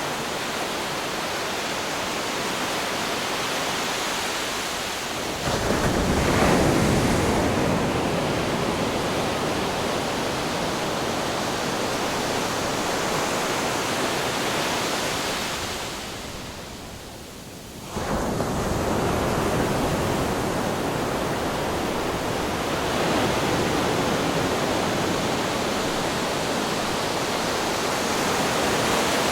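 Ocean waves crashing on rocks: a continuous wash of surf, with a wave breaking loudly about five seconds in and a smaller swell later. Past the middle the surf briefly drops away, then comes back suddenly.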